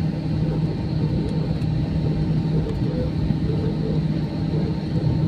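Steady cabin drone of an Airbus A320 in flight on its approach: engine and airflow noise with a strong, even low hum.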